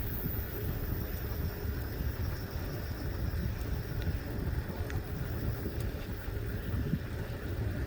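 Steady low wind rumble on the microphone of a bicycle being ridden along a paved path, with a few faint clicks.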